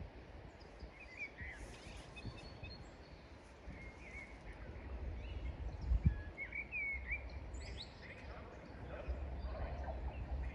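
Small birds chirping and twittering in short calls over a steady low background rumble, with a single brief low thump about six seconds in.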